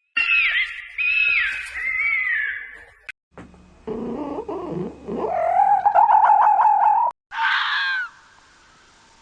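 Animal calls from separate recordings cut one after another: about three seconds of high warbling calls, then a lower call rising into a long wavering cry, then one short call, with a faint hiss near the end.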